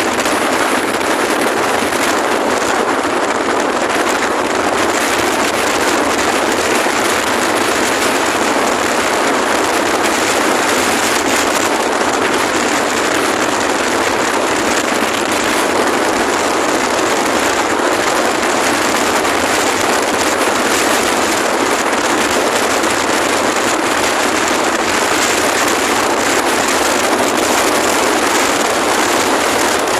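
Strong wind blowing hard across the microphone: a loud, steady rush without a break.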